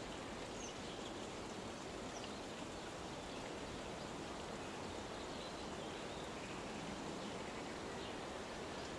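Steady outdoor rushing noise, even in level throughout, with faint, short high chirps scattered through it.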